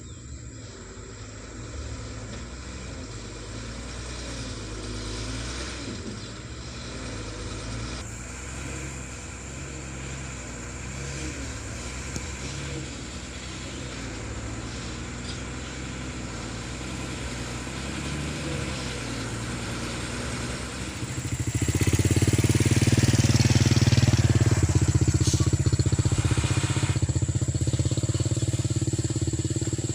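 Motor vehicle engine running under load, slowly growing louder, then much louder from about two-thirds of the way in as it comes close.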